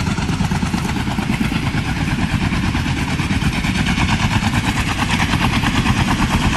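Helicopter running steadily, its rotor blades beating in a fast, even rhythm over the engine's drone.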